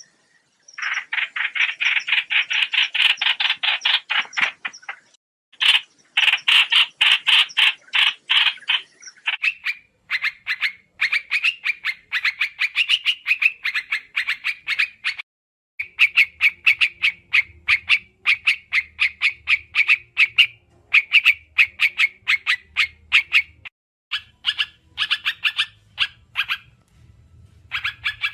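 Trao trảo bird calling: bouts of fast, rapidly repeated chattering notes, each a few seconds long with brief pauses between them. A faint low hum sits under the second half.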